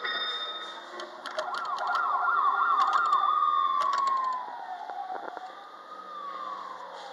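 Jolly Roger Jollytown kiddie ride playing an electronic siren sound effect through its speaker: a fast warbling siren starts about a second in, then slides down into a falling wail and fades, followed by a fainter rise and fall near the end. A few short clicks sound throughout.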